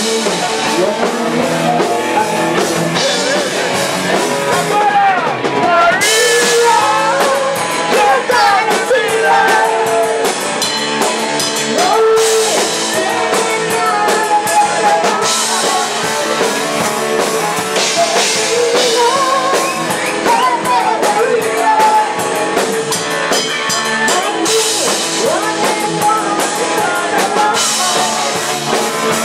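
Live rock band playing a song, with a drum kit, electric guitar and a lead singer.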